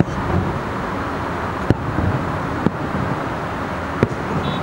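Distant aerial firework shells bursting: four sharp bangs a second or so apart, over a steady background of traffic noise.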